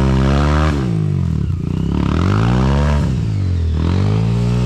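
Dirt bike engine revving under throttle, its pitch climbing and dropping back several times in quick succession.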